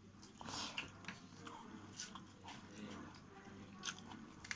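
Close-up eating sounds: a person chewing a mouthful of curry and rice, with irregular wet clicks and smacks from the mouth.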